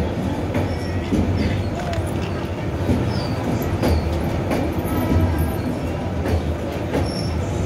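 Two passenger trains running past each other on adjacent tracks, heard from an open coach door: a steady rumble of wheels on rail with sharp clicks over rail joints and brief high wheel squeaks.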